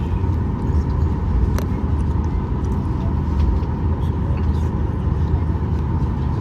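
Cabin noise inside a Boeing 737-800 on the ground after landing: a steady low rumble with a steady whine, and a few faint clicks.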